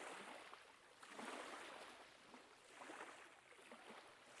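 Faint ocean waves washing in, the surf noise swelling and ebbing about every one and a half seconds.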